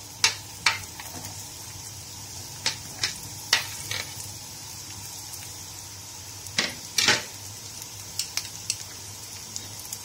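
Diced carrots sizzling in hot oil in a wok, a steady high hiss. Over it come a dozen or so sharp clinks and knocks of the utensils, the loudest about seven seconds in.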